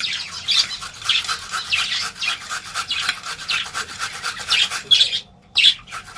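A carrot being grated on a hand grater: a fast run of rasping strokes, with a brief pause about five seconds in.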